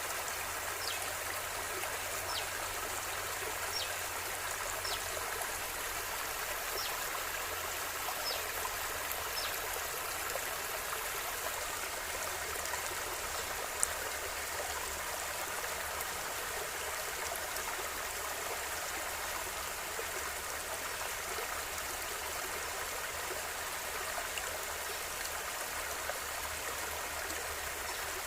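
Steady rushing of a flowing river, an even hiss of moving water. In the first third there is a row of short, high chirps about once a second, and near the middle there is a single sharp click.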